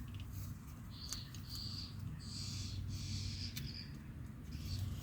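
Yellow paint pen marker squeaking and scratching across a steel bracket in several strokes as a cut line is drawn, over a steady low hum.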